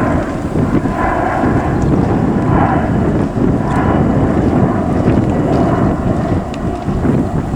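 Low, steady rumble of an American Airlines Boeing 777-200's jet engines on its takeoff and climb-out, with wind buffeting the microphone.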